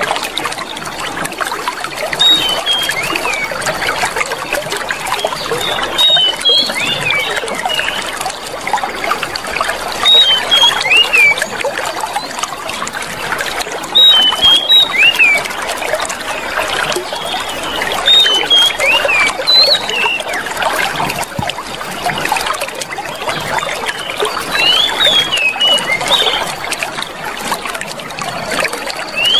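Clear running water trickling and splashing steadily, with short bird chirps repeating about every four seconds.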